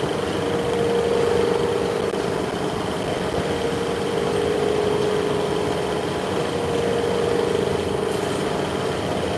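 Machine-shop machinery running steadily: a continuous hum with a steady mid-pitched tone and a faint high whine.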